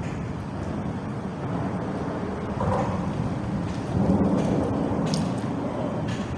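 Low, steady rumble of vehicles passing over the bridge, swelling louder about four seconds in.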